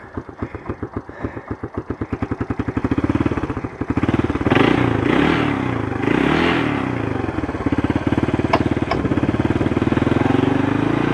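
Honda TRX200SX quad's single-cylinder four-stroke engine running just after a cold start. It starts on a low, uneven idle with slow separate firing pulses, an idle set too low. About three seconds in the revs pick up and are blipped up and down a few times before it settles into a faster, steady idle; two sharp clicks come near the end.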